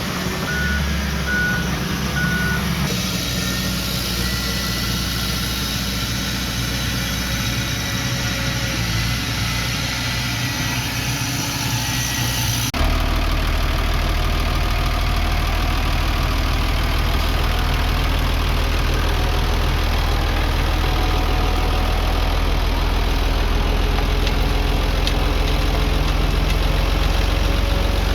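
Diesel engine of heavy earthmoving machinery running steadily. About halfway through it switches abruptly to a louder, deeper engine note. Three short beeps sound near the start.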